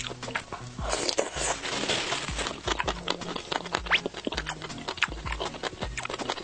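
Close-miked eating of chili-oil bobo chicken skewers: wet chewing with many small smacking clicks. About a second in there is a denser, noisier stretch of about a second and a half.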